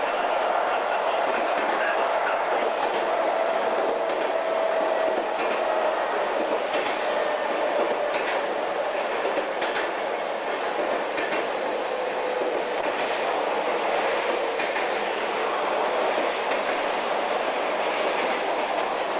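Odakyu 5200-series electric train running, heard from inside the car: a steady rumble with scattered rail-joint clicks and a tone that slowly falls in pitch over the first dozen seconds.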